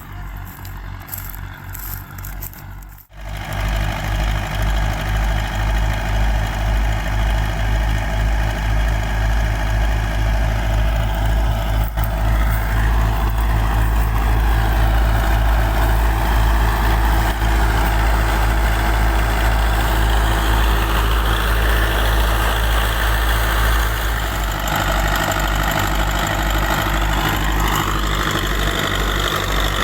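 Russian-built tractor's diesel engine running a thresher, its steady low pulsing beat under the thresher's dense whirring machine noise. About three seconds in the sound jumps much louder and stays loud.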